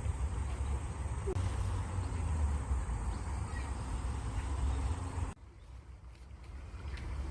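Running water from a stream: an even rushing with a deep low rumble, with a few faint bird chirps. The sound drops away abruptly about five seconds in and then slowly builds back up.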